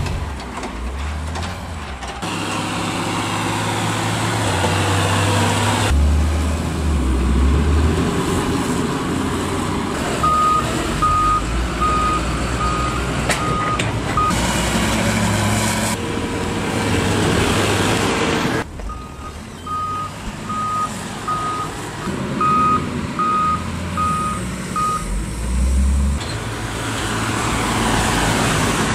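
Heavy farm machinery engines running at a silage harvest. A reversing alarm beeps steadily, about twice a second, in two separate spells through the middle.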